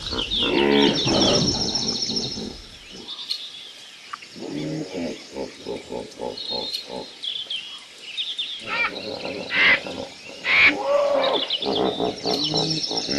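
Jungle animal-call sound effect: several wild animal calls layered with high bird chirps. Loud calls open it, then it drops to a quieter run of quick repeated croaking calls in the middle, and a busier mix of calls and chirps returns near the end.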